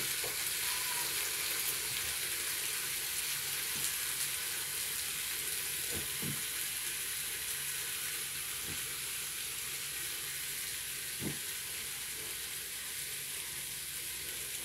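Bacon-wrapped chicken breast sizzling steadily inside a closed electric waffle maker, its juices frying as the lid is pressed down. A sharp click right at the start and a few faint knocks later.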